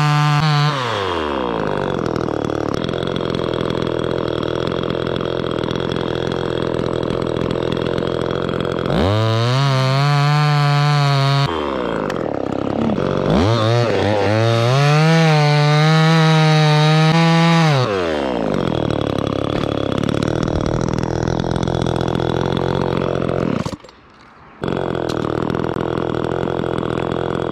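Two-stroke chainsaw running and repeatedly revved to a high, steady full-throttle pitch, then let down to a lower, rougher running pitch. The sound cuts out briefly near the end before the saw is heard again.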